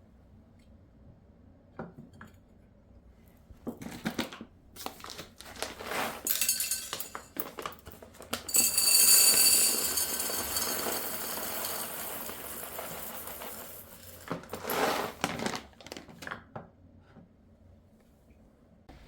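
Clinks and knocks of dishes and utensils being handled, with a steady hiss lasting about five seconds in the middle.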